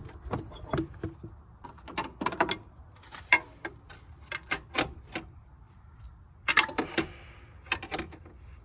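Irregular metallic clicks and clinks of hand tools being worked on car engine parts, a few sharper knocks among them.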